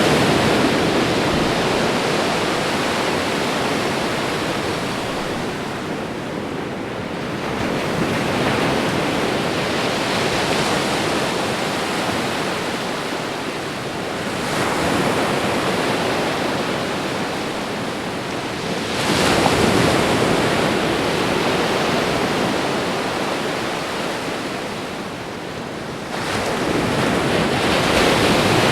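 Ocean waves breaking and washing on a shore, a continuous rushing hiss that swells as each wave crashes, about every five to seven seconds, and eases in between.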